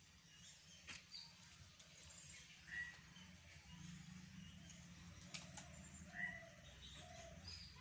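Near silence with a few faint, short bird chirps and a couple of light clicks.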